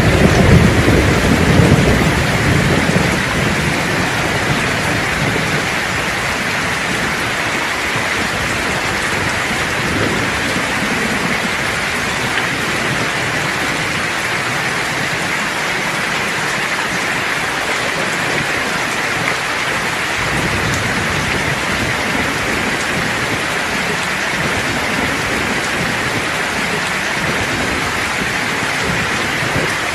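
Steady rain falling, with a roll of thunder rumbling and dying away in the first few seconds.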